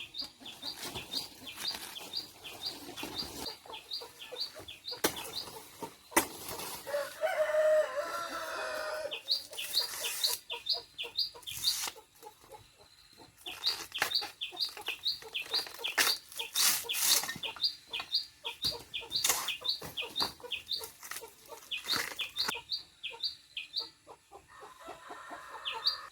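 A flock of chickens clucking and calling, with runs of short high chirps throughout, scattered sharp taps, and one longer drawn-out call about seven seconds in.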